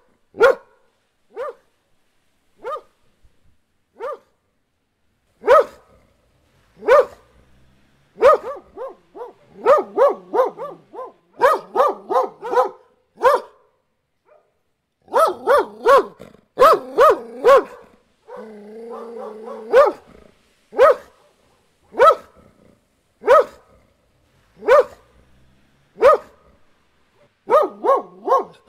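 Dogs barking: single barks at first, then quick runs of barks, a drawn-out steady call about two-thirds through, and then evenly spaced single barks.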